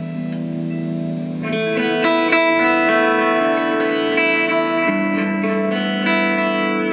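Electric guitar played solo through effects: held, ringing notes, then about a second and a half in a busier run of picked notes climbing higher.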